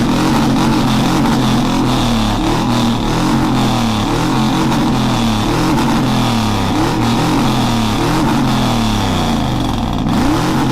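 A vehicle engine revs hard over and over, its pitch climbing and dropping again and again, over a steady loud hiss.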